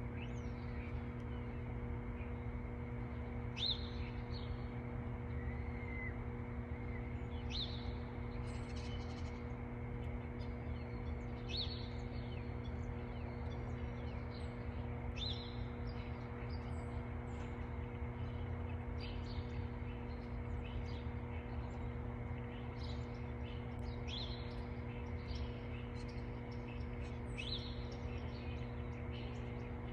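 Birds chirping, short sharp calls every few seconds, over a steady low hum.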